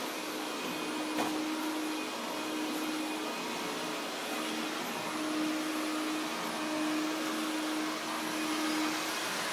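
Hoover Dial-A-Matic vacuum cleaner running steadily, its hum swelling and fading every second or so. A single short click about a second in.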